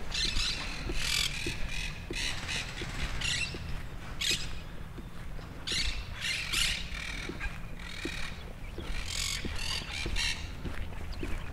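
Birds squawking in short, irregular calls, over faint, even footsteps about two a second and a steady low rumble.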